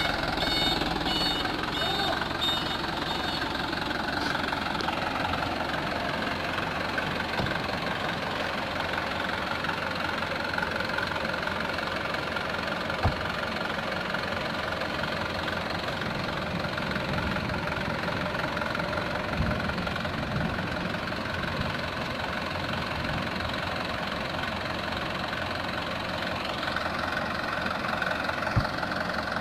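Mitsubishi Canter truck's diesel engine running steadily, with its reversing beeper sounding for the first couple of seconds. Two short sharp knocks come through, one about halfway and one near the end.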